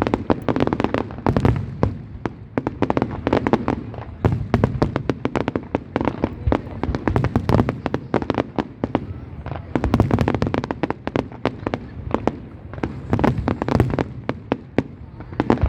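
Aerial fireworks going off in a dense, continuous barrage: rapid crackling and bangs overlapping one another, with a low booming rumble underneath.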